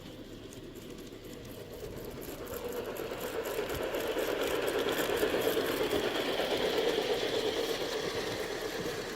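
G scale model train running on garden track, its electric motor and wheels getting louder as it approaches, loudest a little past halfway through, then easing off as it passes.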